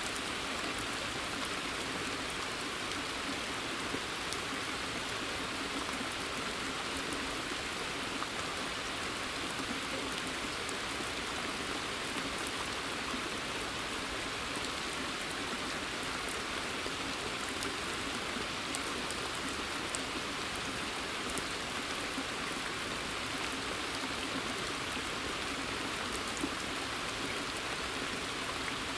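Steady rain falling in a forest, an even hiss with scattered individual drops ticking over it.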